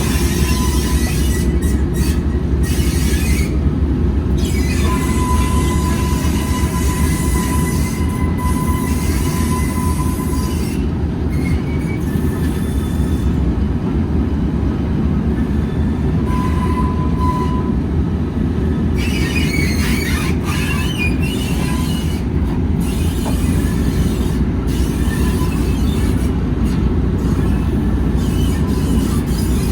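A train running on the rails: a steady low rumble, with a thin high wheel squeal that comes and goes, longest from about five to ten seconds in and again briefly around seventeen seconds.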